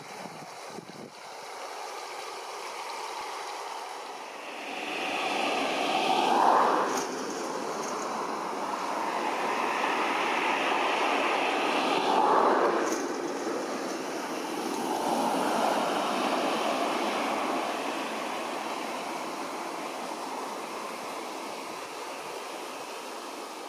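Road vehicles passing one after another: three swells of rushing tyre and engine noise, the first two dropping in pitch as they go by, about six and twelve seconds in.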